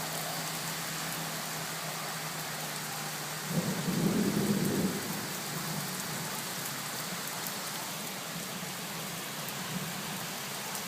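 Torrential rain pouring steadily, with a brief low rumble about three and a half seconds in that fades after a couple of seconds.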